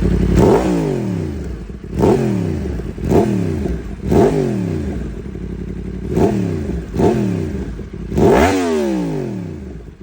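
2025 Yamaha MT-10's crossplane inline-four through a Leo Vince aftermarket exhaust, idling and revved about seven times with quick throttle blips, each rev rising sharply and falling back toward idle; the last rev, near the end, is the biggest and longest.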